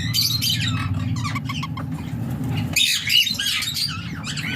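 Indian ringneck parakeets squawking and chattering in many short, shrill calls, with a louder burst about three seconds in, over a steady low hum.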